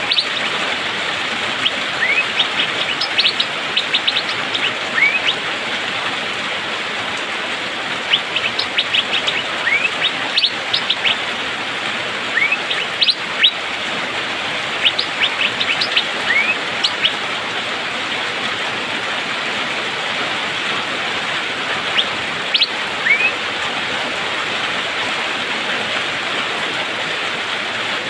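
Asian fairy-bluebird (cucak biru) calling: short rising whistled notes and quick runs of sharp 'pik-pik' ticks in bursts, over a steady hiss. The calls stop about 23 seconds in.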